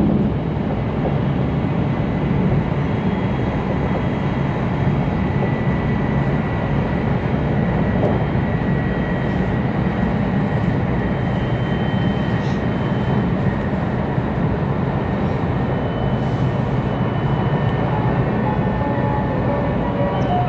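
Cabin running noise of an E2-series Tohoku Shinkansen car in motion: a steady low rumble and rush from the train on the rails, with a faint high whine held over it.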